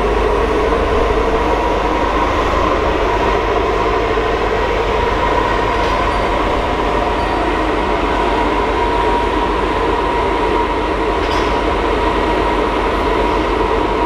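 A container freight train's wagons rolling slowly past on a nearby track, pushed by a JR Freight DF200 diesel locomotive. This gives a steady low rumble of wheels and engine with a constant whine over it.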